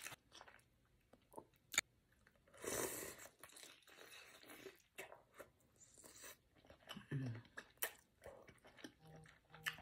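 Close-up wet chewing and biting on sauce-soaked king crab meat: scattered smacking clicks, a longer wet burst about three seconds in, and a couple of short closed-mouth "mm" hums later on.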